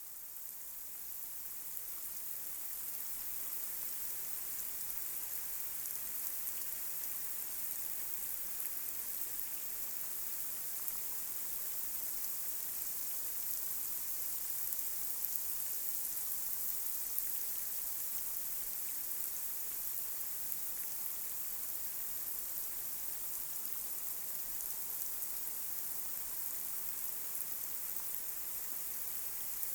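Light rain falling on a street: a steady hiss of drops with faint scattered pattering. It fades in over the first few seconds.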